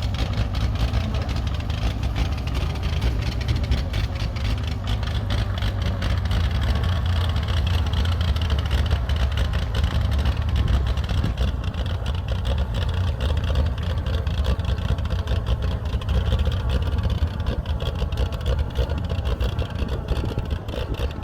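Oliver 70 tractor's six-cylinder engine running steadily but rough: the owner suspects the carburettor is giving it too much gas.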